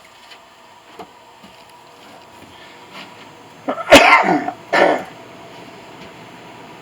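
A person coughing twice, loudly, about four seconds in, the second cough shorter.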